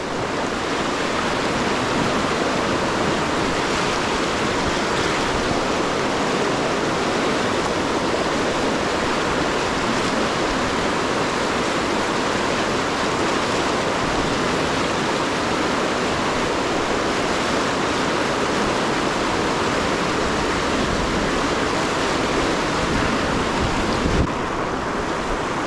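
Rushing river rapid water around a kayak, a steady loud rush of whitewater.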